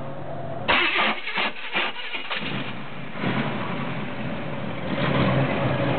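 1990 Pontiac Trans Am's V8 being started for the first time: the starter cranks it in a quick run of strokes about a second in, and a couple of seconds later the engine catches and runs, louder near the end.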